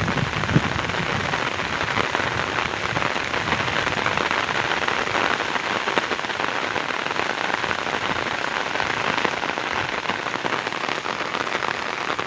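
Heavy rain falling steadily, a dense even patter of many drops. There is one brief louder knock about half a second in.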